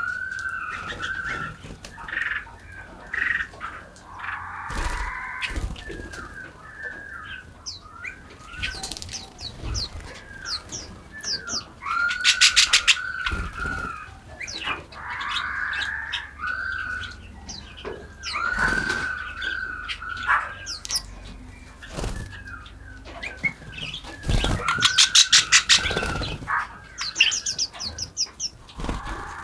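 Several birds calling and chirping: short arched calls repeated back and forth, with two loud bursts of rapid chattering, one near the middle and one near the end.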